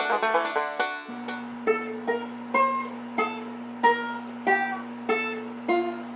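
Plucked-string music: a short spell of dense strumming, then single plucked notes at a slow, even pace over a steady low drone.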